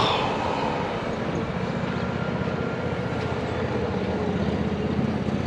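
A steady motor drone over a constant rush of noise, with a short knock right at the start.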